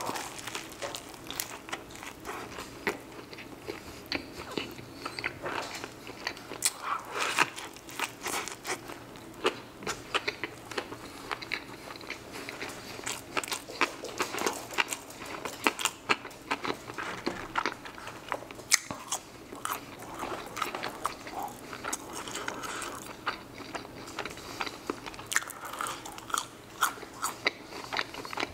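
Close-miked chewing of a crispy fried chicken sandwich: wet mouth sounds with many sharp crunches and crackles.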